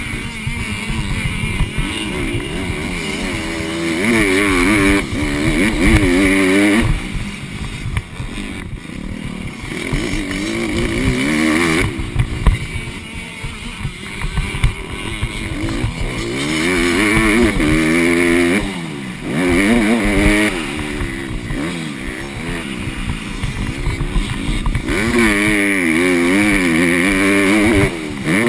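Motocross bike engine revving hard, its pitch climbing and dropping again and again as the throttle is worked and gears change, with a steady rush of wind noise.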